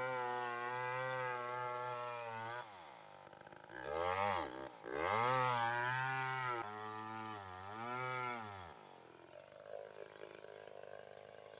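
Chainsaw engine running steadily at high throttle, then dropping back and revved up and down three times before it shuts off about three-quarters of the way through.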